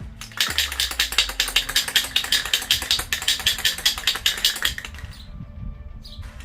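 Aerosol primer can being shaken: the mixing ball rattles in quick, even strokes, about five a second, for about four seconds, then stops.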